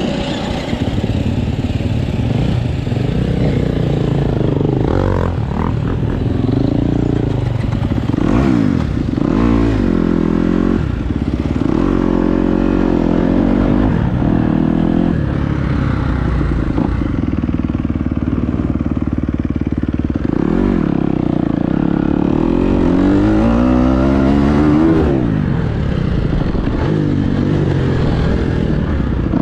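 Dirt bike engine being ridden, revving up and easing off over and over, its pitch rising and falling.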